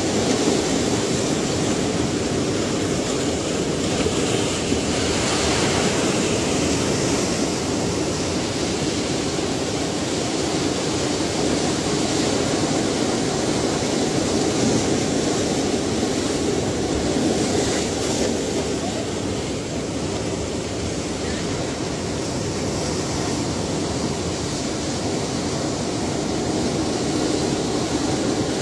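Ocean waves breaking and washing in as a continuous surf noise, swelling and easing gently.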